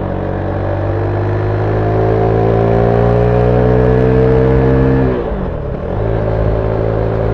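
Zontes 310V motorcycle's single-cylinder engine on its stock exhaust, heard from on board while riding. The revs climb slowly for about five seconds, then drop sharply and settle back to a steady pace.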